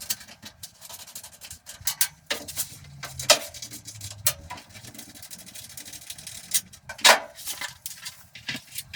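Resistance spot welder working on steel body panels: irregular sharp clicks and clacks as the welding arms clamp and release, with a short low hum about three seconds in.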